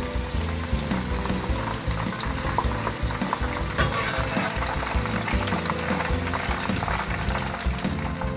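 Zucchini sticks deep-frying in plenty of hot oil in a pan, a dense continuous crackling sizzle, with a brighter flare of crackling about four seconds in.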